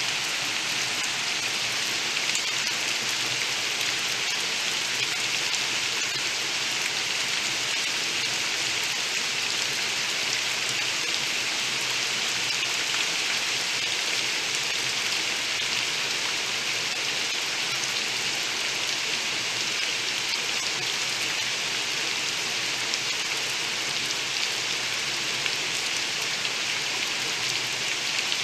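Heavy rain falling steadily on trees, leaves and bare ground: a dense, even hiss of many drops that keeps the same strength throughout.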